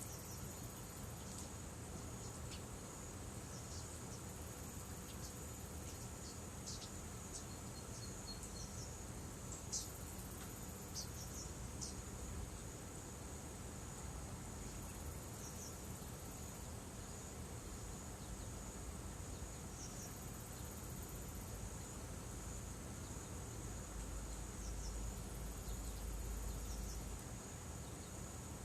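Steady high-pitched chirring of insects in a rural evening chorus, with scattered short high ticks over it.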